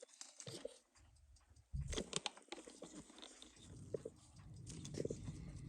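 Faint scattered clicks and taps of small watchmaking tools and parts being handled on the bench while working on a Seiko 6139 chronograph movement, over a low handling rumble.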